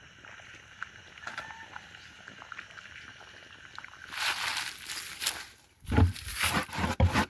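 Faint steady outdoor background, then a rasping noise about four seconds in. From about six seconds there is a run of rubbing and scraping strokes with knocks: melted beeswax being rubbed inside a wooden bee box as bait.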